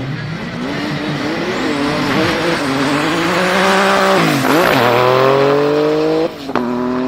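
Tuned Porsche 993 GT2's twin-turbo flat-six under hard acceleration on a drag strip, its note climbing over a loud rush of tyre noise. The pitch dips and recovers about four seconds in, then climbs steadily until a sharp gear change about six seconds in, after which it climbs again.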